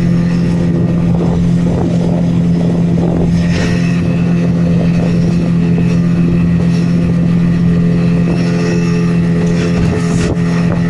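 Speedboat engine running loudly at a steady pitch while underway, with a rushing noise underneath.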